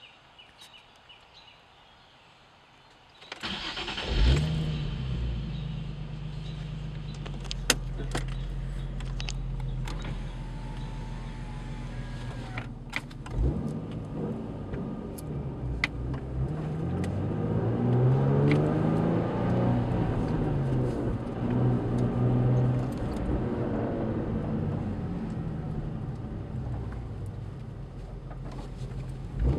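Nissan 350Z's VQ35HR 3.5-litre V6 with ART pipes and stock exhaust starting about three seconds in with a brief flare, then idling steadily; from about two-thirds of the way through it is revved up and down several times before settling back to idle. A few sharp clicks sound over the idle.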